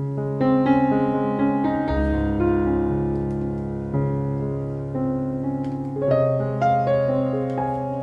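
Background music: a slow solo piano piece, chords struck roughly every two seconds and left to ring and fade.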